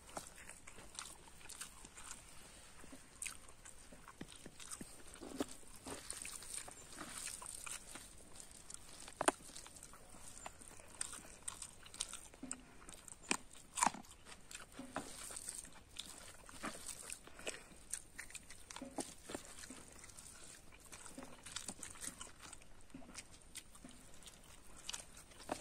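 A person eating rice and curry by hand: faint chewing with irregular soft wet smacks and clicks of the mouth, a couple of sharper smacks partway through.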